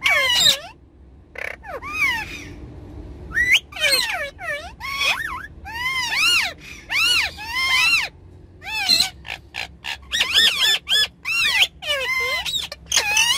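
Ringneck parrots giving loud, repeated squawking calls, each call rising and falling in pitch, coming in quick runs with short pauses between.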